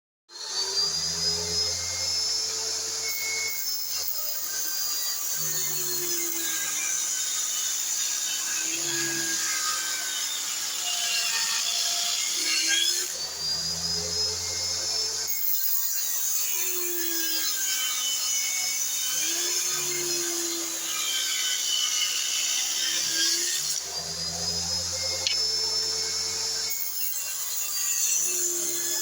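Homemade table saw running and ripping a thin wooden board, its motor pitch sagging and recovering over and over as the wood is fed through the blade.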